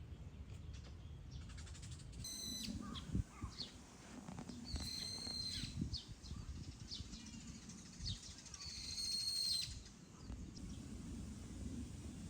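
Three short, high, clear animal calls, each lasting about a second or less, with a few faint knocks and handling noises underneath.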